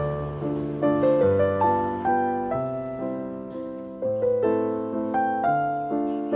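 Background piano music: a gentle melody over low bass notes, each phrase swelling and fading.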